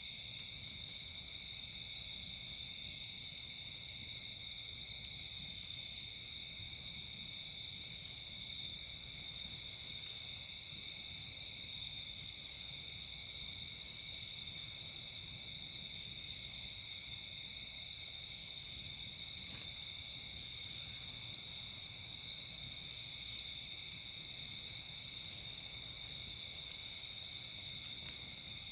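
A steady chorus of crickets chirping at night. About every six seconds a much higher, hissing insect buzz joins in for a second or two, and a few faint pops sound in between.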